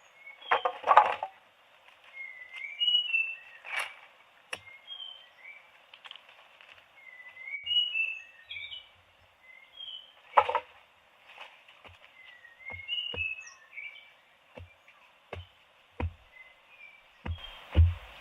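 Birds chirping over and over in short, sliding calls. Sharp clicks and knocks come now and then, and a run of low thumps picks up near the end.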